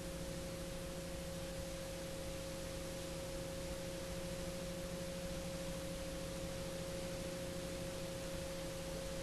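Steady hum of several fixed tones over an even hiss, from Garrett TPE331 turboprop engines held at high power during a ground run-up while the temperature limiter is checked. No change in pitch or level.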